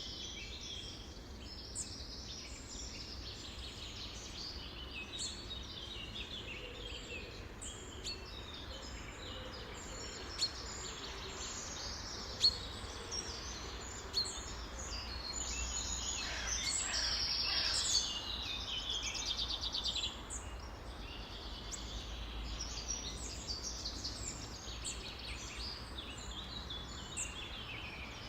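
Many wild birds chirping and singing at once in a dense chorus, with a few sharper single calls and a louder run of rapid repeated notes about two-thirds through, over a steady low background rumble.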